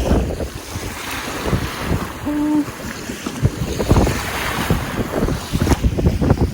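Strong wind buffeting the microphone in gusts, over the wash of wind-driven lake waves. A brief short tone sounds about two seconds in.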